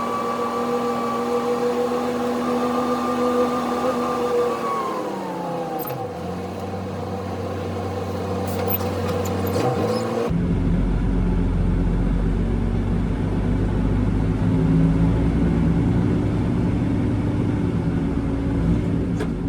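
Concrete mixer truck's diesel engine running. Its pitch falls about five seconds in as the truck slows, and after a sudden change a few seconds later it runs on as a steady low rumble.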